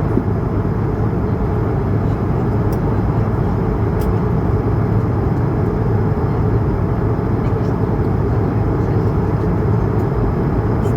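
Steady cabin drone of an Airbus A220-300 in flight: the rush of air along the fuselage and its Pratt & Whitney PW1500G geared turbofans running at a constant setting, with a low hum underneath.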